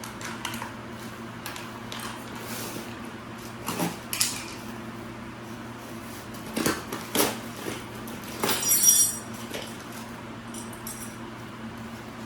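Small metal parts clinking and rattling as they are handled: a few separate clinks, the loudest a jingling rattle about eight and a half seconds in, over a steady low hum.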